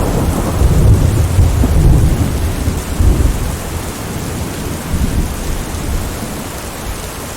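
Rolling thunder rumbling in heavy pulses through the first three seconds or so, then dying away, over steady rain.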